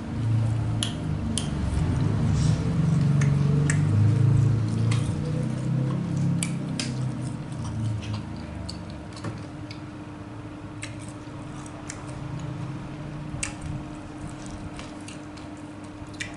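Close-up chewing and mouth sounds of someone eating tofu, louder in the first half, with many scattered sharp clicks of utensils and mouth.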